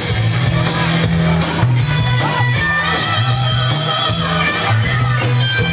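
Live band music with electric guitar and a steady bass line, playing an instrumental passage between sung lines of a Khmer song.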